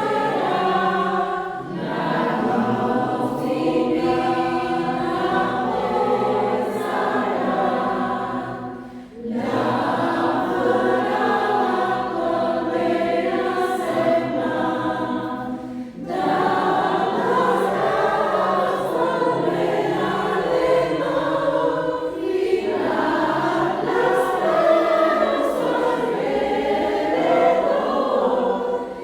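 Choir singing, with short breaks between phrases about nine and sixteen seconds in.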